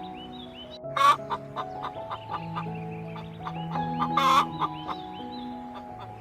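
Chicken clucking, with two loud calls about three seconds apart, over background music with held notes.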